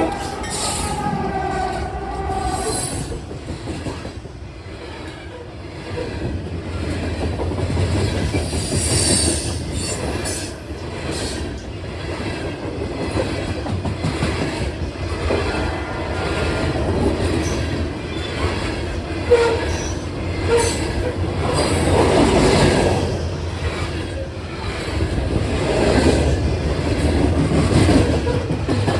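Train rolling past close by: wheels rumbling and clicking over the rail joints, with brief high wheel squeals now and then. The end of a horn blast fades out in the first couple of seconds.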